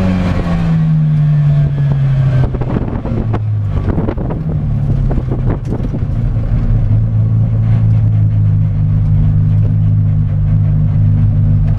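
Classic Mini race car's four-cylinder A-series engine heard from inside the cabin, revs falling as the car slows after its run, then running steadily at low revs. A few knocks and rattles come through about three to six seconds in.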